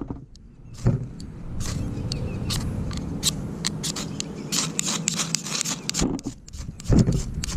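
A fire-steel spark striker scraped again and again in quick, irregular strokes, throwing sparks onto tinder that will not catch. Wind buffets the microphone throughout, with a strong gust near the end.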